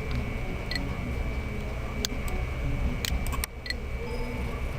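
A few scattered sharp clicks from a computer mouse and keyboard, some with a brief high ping, over a steady electrical hum.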